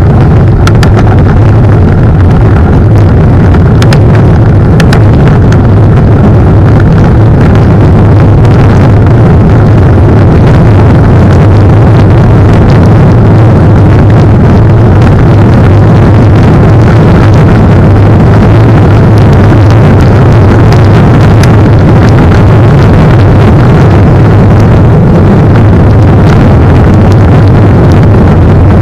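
Steady, very loud rumble of wind buffeting the microphone of a camera riding on a mountain bike, heavy in the low end, with scattered clicks and knocks from the ride over the trail.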